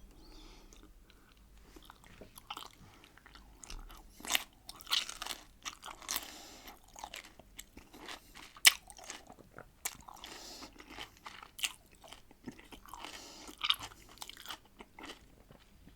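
Close-miked biting and chewing of crunchy pickled cucumbers: after a quiet start, a series of sharp crunches with chewing between them, the loudest a little past halfway.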